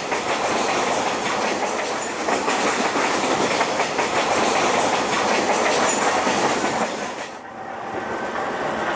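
Tanzania-Zambia Railway passenger train running along the track, a steady noise of wheels on rails, dropping briefly in level about seven and a half seconds in.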